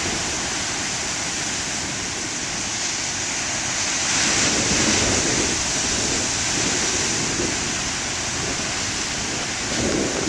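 Large ocean waves breaking and surf rushing up the beach, a continuous rush of water that swells louder about four seconds in and again briefly near the end.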